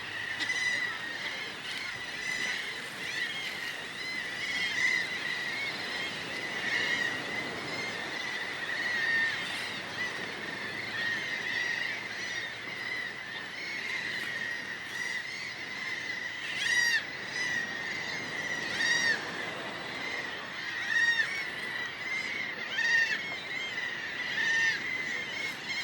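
A flock of birds calling together: a dense, unbroken chorus of many short, arching calls overlapping one another, with louder individual calls standing out now and then.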